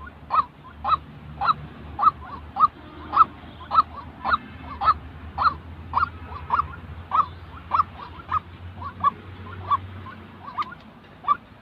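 White-breasted waterhen calling: a steady run of short, harsh, honking notes, about two a second.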